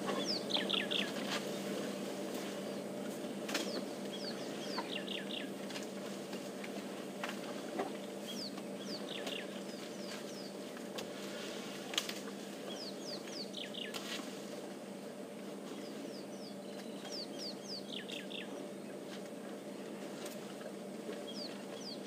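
Bird calling: short runs of quick descending whistled notes, repeated every few seconds, over a steady low hum.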